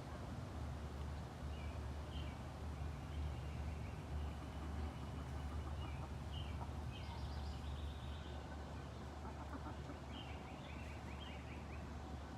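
A flock of chickens clucking and calling now and then, short soft calls scattered through, over a steady low rumble.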